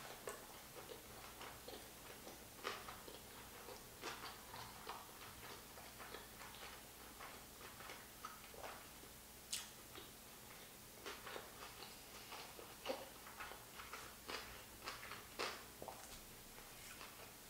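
Faint close-up chewing of a mouthful of sushi roll: irregular soft clicks and smacks of the mouth.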